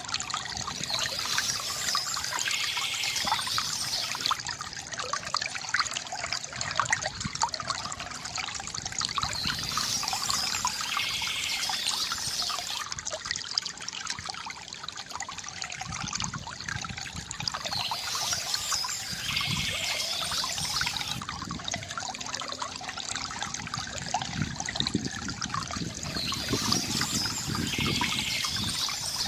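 Water trickling and gurgling steadily from a bamboo fountain spout into a basin, with brighter splashy swells that recur about every eight seconds.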